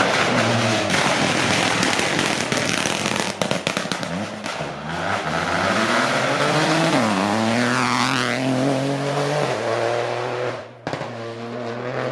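Rally car engine running hard on a special stage, revving through gear changes. There is a rapid run of sharp cracks about three seconds in. Around seven seconds the engine pitch dips, then climbs steadily. The sound breaks off sharply near the end before an engine is heard again.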